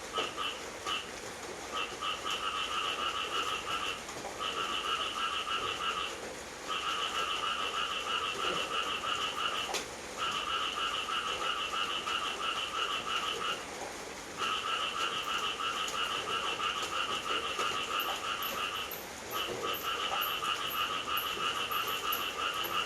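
Frogs calling in long trains of rapid pulses, in bouts of a few seconds broken by short pauses, over a steady hiss of rain.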